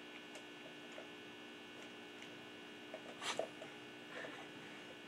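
Faint steady electrical hum, with a few light clicks and a brief clatter about three seconds in.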